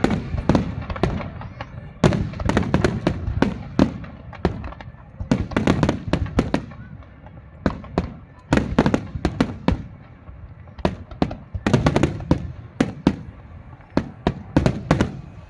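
Fireworks display: aerial shells bursting with sharp bangs and crackles, coming in quick clusters every two to three seconds.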